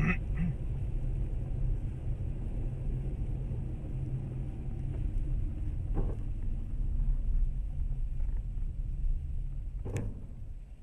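A car's engine and road noise as a steady low rumble, with a short sharp knock about six seconds in and a louder one near ten seconds; the rumble fades near the end.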